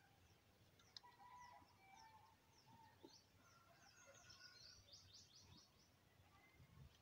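Near silence, with faint bird chirps and short twittering calls in the background, busiest in the second half.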